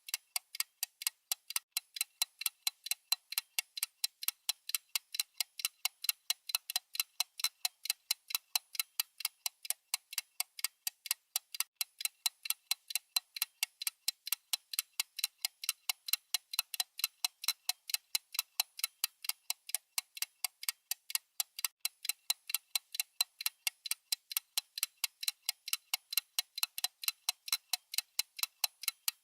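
Clock ticking sound effect: sharp, evenly spaced ticks, several a second, bright and thin with no low end.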